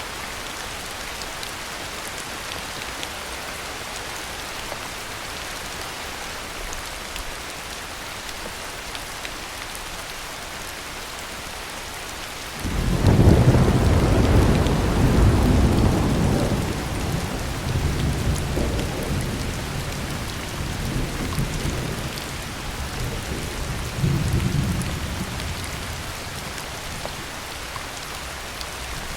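Steady heavy rain hissing, with a roll of thunder that breaks in suddenly about halfway through and rumbles on in swells for over ten seconds before dying away.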